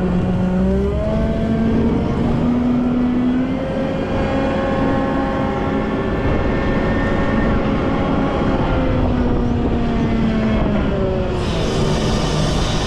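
Volvo L90F wheel loader's diesel engine working, its pitch rising and falling slowly as the revs change. A hiss joins near the end.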